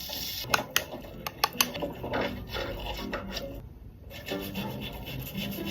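Close-up rubbing and scratching of makeup being applied, with a few sharp clicks in the first second and a half.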